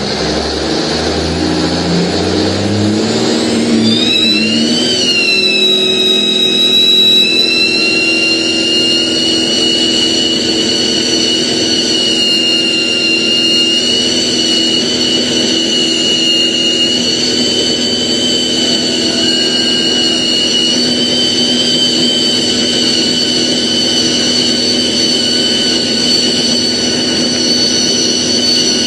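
1952 Kenworth Needle Nose semi truck doing a burnout: its diesel engine revs up over the first few seconds, then is held at high revs while the spinning tires squeal in a steady high-pitched screech.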